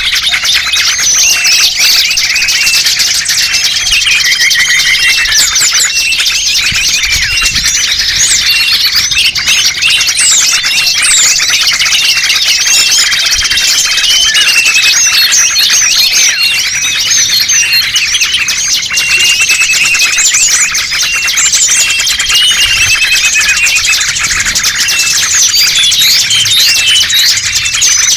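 Loud, dense chorus of many small birds chirping, twittering and trilling at once, overlapping without a break: a bird-lure (pikat) call track for attracting small songbirds.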